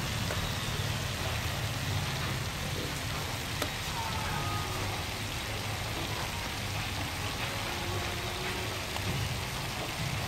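Steady sizzling hiss of sliced meat stir-frying in a hot pan.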